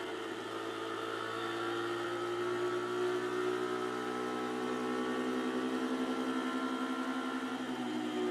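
Pit bike engine running at a fairly steady speed while the bike cruises, its pitch drifting only slightly.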